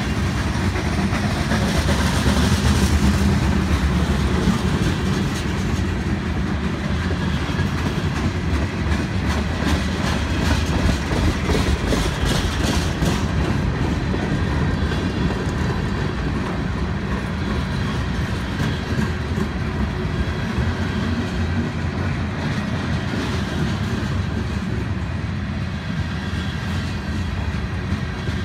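Freight cars of a long, slow-moving mixed freight train rolling past close by, tank cars and boxcars: a steady rumble of steel wheels on the rails, broken by many short clicks and clanks as the wheels pass over the track.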